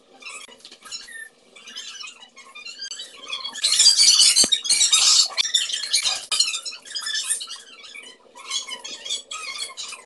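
Freshly made slime being squished and worked by hand: a stream of quick, wet clicks and pops, thickest and loudest in a stretch about four to six seconds in.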